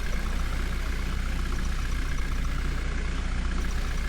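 Heavy diesel engine idling steadily with an even low rumble.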